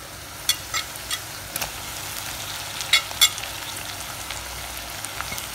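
Onions and potatoes frying in oil, sizzling steadily, as chopped tomatoes and green chillies are pushed in from a bowl with a silicone spatula. A few sharp taps of the spatula come in the first couple of seconds, and the two loudest come about three seconds in.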